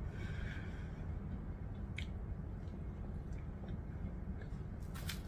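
Faint mouth-closed chewing of a bite of chicken wrap, with a single soft click about two seconds in, over a steady low room hum.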